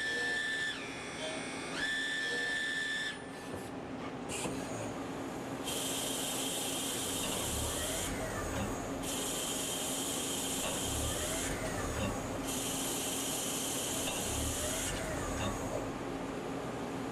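CNC lathe running a machining cycle: a steady high whine twice in the first three seconds, then three stretches of hissing of about two to three seconds each over a steady machine hum.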